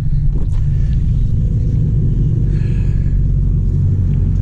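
Ford F-150 Raptor R's supercharged V8 and drivetrain rumbling steadily under way, heard from inside the cab.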